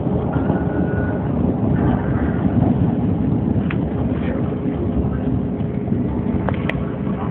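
Chicago 'L' rapid-transit train running along the track, heard from inside the car: a steady rumble of wheels and running gear with a faint even hum and a few brief clicks, one sharper near the end.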